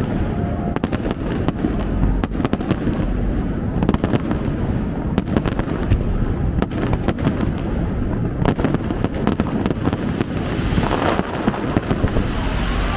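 Aerial fireworks going off in quick succession: many sharp bangs and crackles over a continuous low booming, with a denser crackling hiss near the end.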